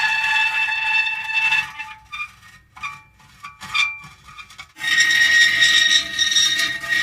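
Metal creaking: a long drawn-out creak with steady high tones, a quieter stretch of short creaks and ticks in the middle, then another long tonal creak from about five seconds in.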